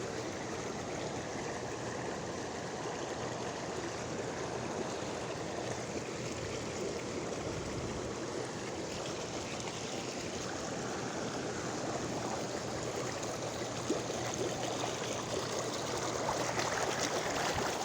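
Floodwater flowing in a steady, continuous rush.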